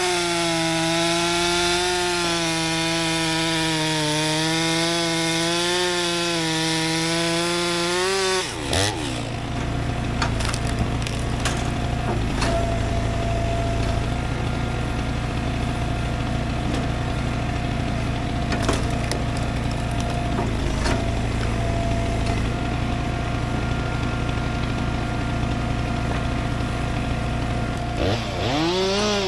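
Stihl two-stroke chainsaw running at high revs in a cut, its pitch wavering under load. About eight seconds in it drops to a low idle with a few knocks, then revs back up near the end.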